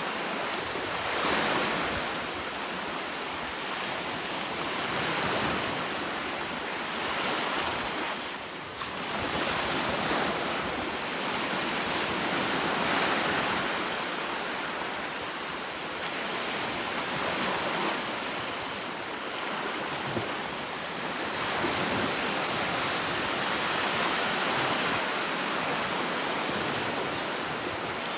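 Sea waves breaking and washing on a shore: a continuous hiss of surf that swells and eases every few seconds, with a brief lull about eight seconds in.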